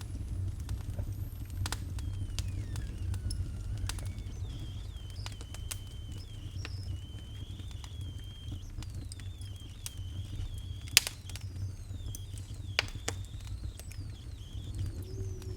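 Wood fire crackling, with frequent sharp pops over a steady low rumble; the loudest pop comes about 11 seconds in. A thin, wavering high whistle runs through much of it, with one falling glide near the start.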